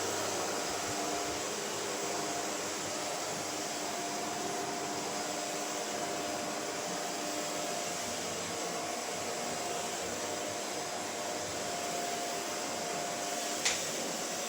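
Shark upright vacuum cleaner running steadily, a constant motor whine over a broad hiss of suction, with a single sharp click near the end.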